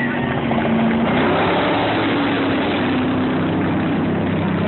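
Off-road race truck engine running steadily at low revs, its pitch sagging slightly and picking up again.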